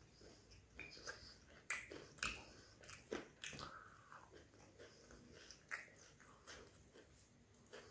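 Close-miked chewing of fried prawn vadai, with irregular crisp crunches and wet mouth sounds; the loudest crunches come about two seconds in.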